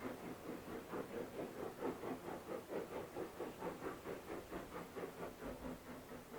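Steam locomotive working under power, its exhaust beats chuffing in a steady rhythm of about four a second.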